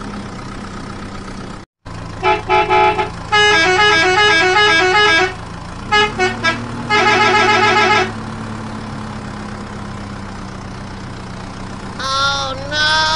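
Electronic vehicle-horn beeps and quick tooting horn tunes over a steady low engine-like hum, in several bursts. Near the end comes a bending, wavering horn sound.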